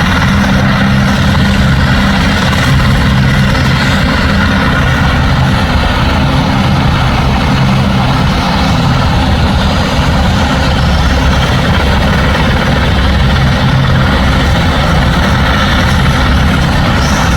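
Helicopter engine and rotor running steadily at close range, a loud continuous drone with a low, even hum.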